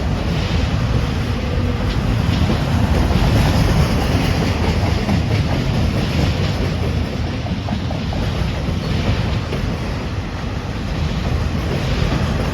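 A train's cars rolling past: a steady, loud rumble of wheels on rail, with repeated clicks as the wheels cross rail joints.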